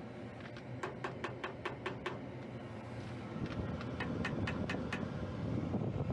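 Rapid, evenly spaced clicking, about five clicks a second, in two runs, over the steady running of a Lennox rooftop unit's inducer fans. It sounds like the gas-heat spark igniter firing during the heat test. A low rumble builds from about halfway through, as if the burners are lighting.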